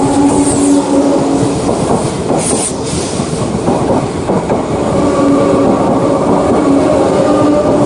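Electric train running on rails, with a steady motor whine under the clatter of the wheels and a brief high hiss about two and a half seconds in.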